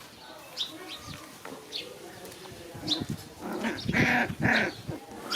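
Puppies play-fighting, with rough growls and snarls about three and a half seconds in. A bird gives short high chirps repeating every half-second or so.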